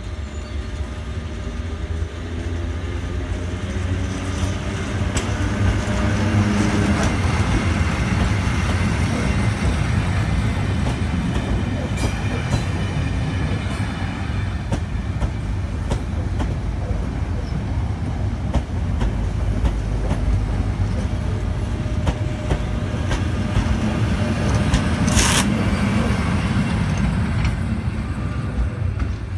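Class 73 locomotives 73963 and 73965 hauling a Network Rail PLPR track-inspection train past a station platform. The locomotive's engine sound grows as it approaches, then the coaches pass with steady wheel-on-rail noise and a few clicks. There is a short sharp noise a few seconds before the end, and the sound fades as the train moves away.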